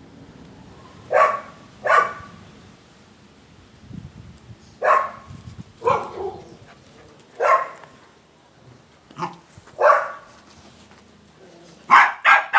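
Doberman puppy barking in short single barks every second or two, with a quick run of three barks near the end.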